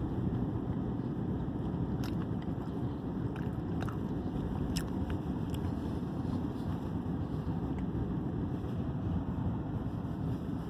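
Steady low rumble of a vehicle being driven on snowy streets, heard from inside the cabin: engine and tyre noise at an even level, with a few faint clicks.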